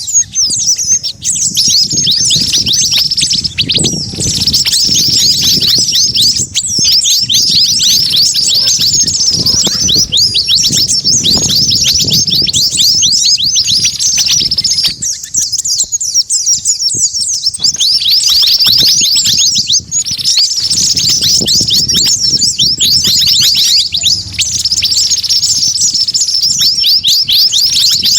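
Bird-lure recording of small songbirds calling all together: white-eyes, sunbirds and sogon chirping in a dense, unbroken stream of quick, high, downward-sweeping notes. The chirps pause briefly about halfway through, and a low rumble runs underneath.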